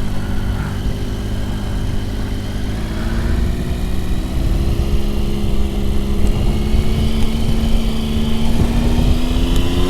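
Motorcycle engine running at a steady speed, heard from the rider's seat, with low rumbling wind noise on the microphone; the engine note rises slowly near the end as the revs pick up.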